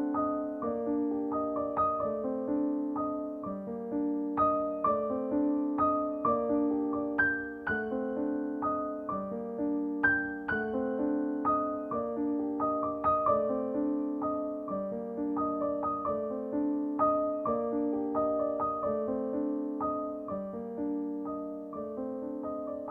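Soft background piano music, a gentle stream of single notes and chords.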